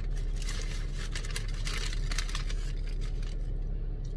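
Rustling and crinkling of a paper food wrapper as a hot dog is handled for eating, stopping a little over three seconds in, over a steady low hum.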